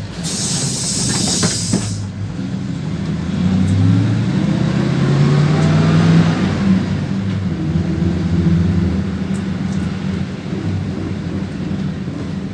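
PAZ-32054 bus's ZMZ V8 petrol engine pulling away and accelerating, its pitch rising twice as it revs up through the gears, heard from inside the cabin. A burst of compressed-air hiss comes in the first two seconds.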